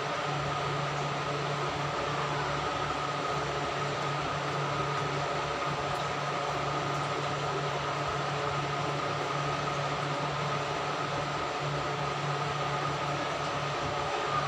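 Steady machine hum with an even hiss and a faint high whine, unchanging throughout.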